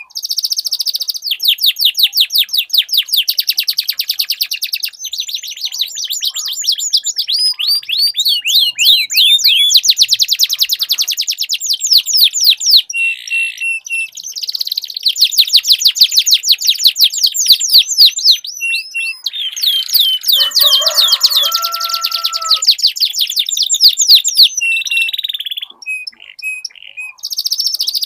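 Domestic canaries singing loudly in long rolling trills, runs of rapid repeated high notes that go on almost without a break, pausing only briefly twice.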